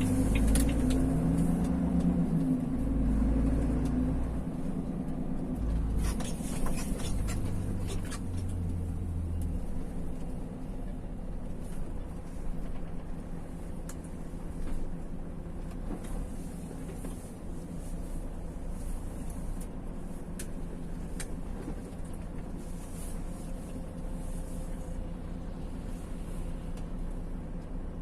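Car driving, heard from inside the cabin: a steady engine and road hum, heavier and louder during the first ten seconds, then settling to an even drone.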